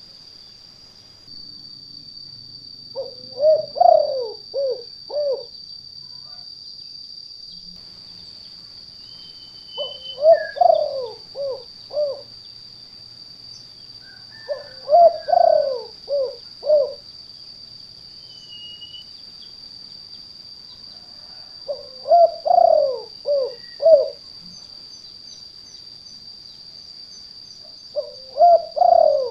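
Spotted dove (tekukur) cooing, a phrase of five or six short coos repeated five times, about six seconds apart, as a recorded lure call for wild doves. A steady high-pitched whine runs underneath.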